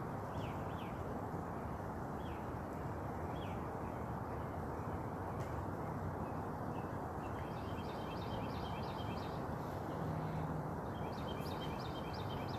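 Birds calling over a steady rushing background noise. First come a few single short chirps, then two rapid strings of about half a dozen repeated notes each, the second near the end.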